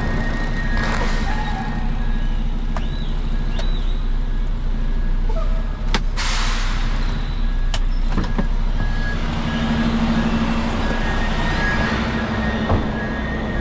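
Heavy truck engine running steadily, with two short hissing bursts, one about a second in and one about six seconds in, and a few sharp clicks.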